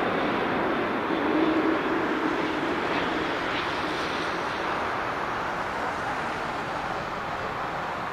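Jet engine noise from a Japan Airlines Boeing 787-9 Dreamliner with GE GEnx engines, a broad rushing sound that slowly fades as the airliner moves away.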